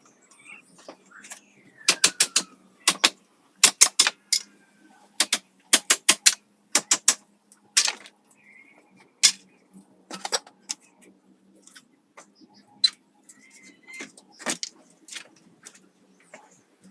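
Sharp clicks and knocks in quick clusters of two to four, the busiest in the first half and sparser later, from hand work on the materials.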